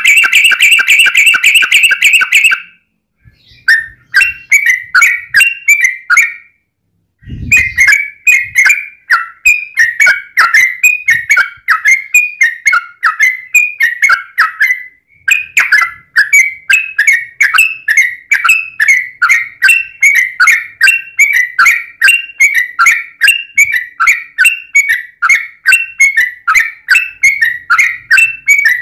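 Yellow-vented bulbul (trucukan) singing its long, rapid 'ropel' chatter: a dense buzzy burst at first, then after short pauses an unbroken run of bubbly repeated notes, about three or four a second. A brief low thump sounds about seven seconds in.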